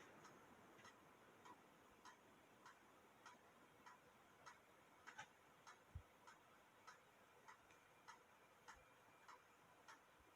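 Near silence with a faint, even ticking, a little under two ticks a second, and one faint low thump about six seconds in.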